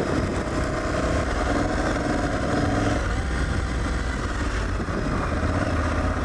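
Aprilia Tuareg 660's parallel-twin engine running as the motorcycle is ridden along a dirt trail, the engine note changing about halfway through.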